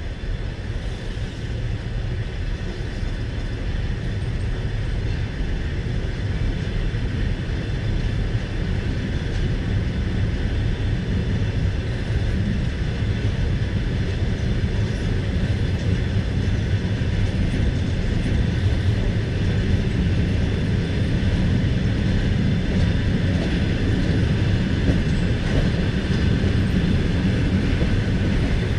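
Passenger train running, heard from inside a carriage as it pulls away from a station: a steady low rumble of wheels on rails that grows gradually louder as the train gathers speed.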